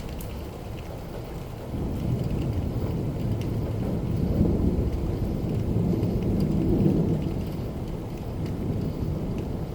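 Steady rain with a long, low rumble of thunder. The thunder swells about two seconds in, peaks twice, and dies down near the end.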